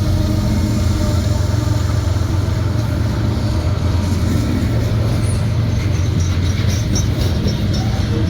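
Freight train passing close by: a loud, steady low rumble, with faint clicking in the second half.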